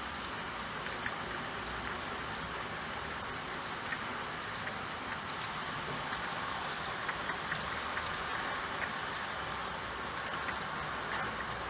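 Steady rain with scattered individual drops ticking, an even hiss that doesn't change in level.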